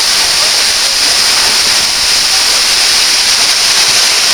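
Waterfall rushing, a loud steady hiss of falling water.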